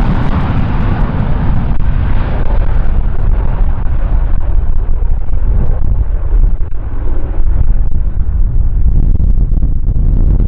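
Jet airliner's engines at takeoff power, the sound growing duller and fading as the aircraft climbs away. Strong gusty wind buffets the microphone throughout with a heavy low rumble.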